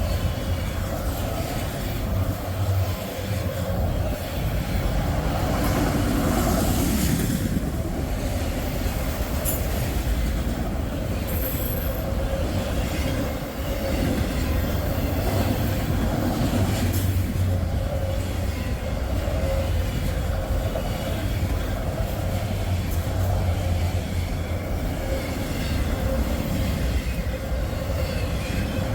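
Freight train cars rolling past with steady wheel noise on the rails, and a brief high wheel squeal about twelve seconds in.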